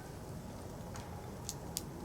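Burning firewood crackling: three sharp pops about a second in, at the middle and near the end, the last the loudest, over the fire's low steady rush.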